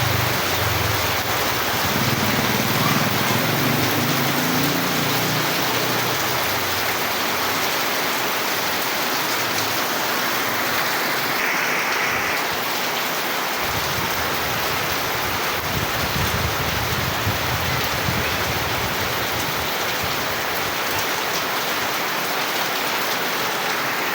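Steady rain falling, an even hiss of drops. A low rumble sits underneath in the first several seconds and comes back around the middle.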